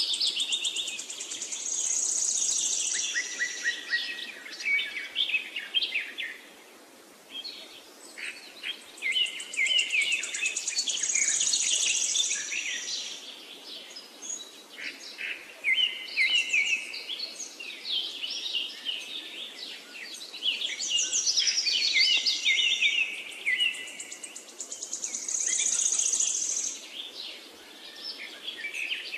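Birdsong from several birds: a busy chorus of high chirps, trills and short whistled calls, with a brief lull about seven seconds in.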